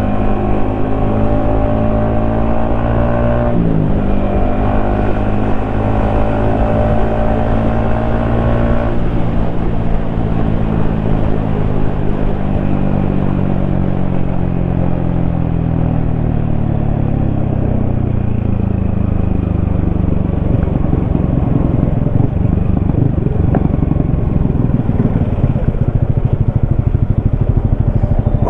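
Yamaha XSR155's single-cylinder engine running under way, holding steady revs with a quick gear change about four seconds in. The engine note then falls slowly as the bike slows, and it settles into a low, steady run near the end.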